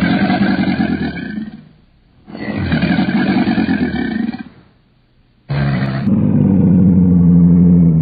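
Deep animal roaring in three long calls of about two seconds each, with short breaks between; the third begins about five and a half seconds in and is the loudest.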